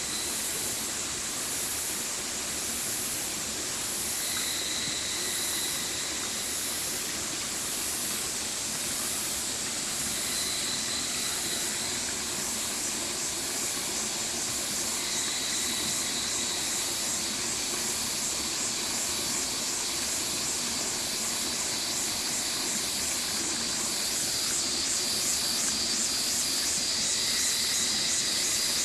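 Stream water flowing steadily. A faint high held tone comes and goes every few seconds, and a fast high pulsing grows louder near the end.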